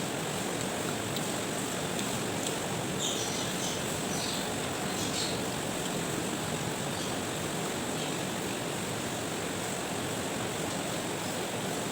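Steady rushing background noise at an even level, with a few faint, short high-pitched clicks or chirps about three to five seconds in.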